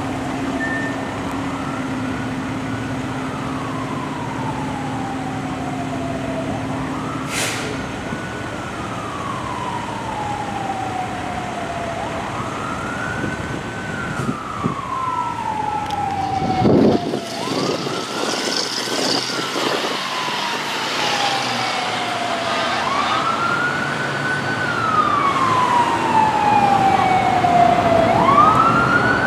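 Fire apparatus siren on wail, each cycle rising quickly and falling slowly about every five and a half seconds, growing louder near the end as the vehicle approaches. About two-thirds of the way through, a deep tone sweeps briefly downward with a burst of noise.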